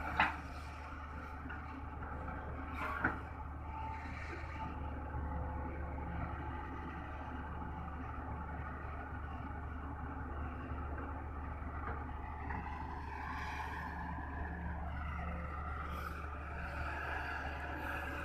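Heavy diesel machinery running steadily at an earthworks site: an excavator loading soil into a dump truck, with a low engine hum throughout. Two sharp knocks come right at the start and again about three seconds in.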